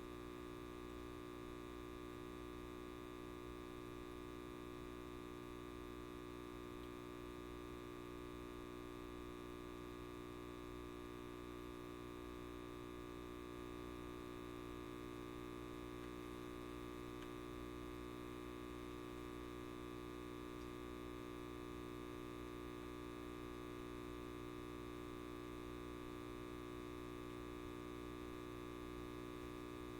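Light bulb giving off a steady electrical mains hum and buzz, many even overtones held constant throughout.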